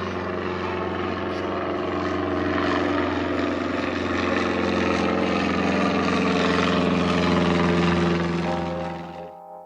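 Aircraft engine noise, loud and steady with a droning tone, swelling slightly before cutting off abruptly near the end as guitar music begins.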